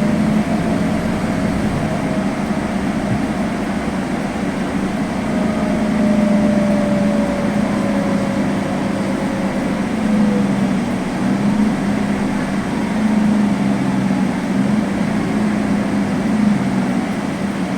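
Interior of a Scania N280UB city bus under way: its compressed natural gas engine and drivetrain give a steady low hum over road noise. A fainter whine falls slowly in pitch about halfway through.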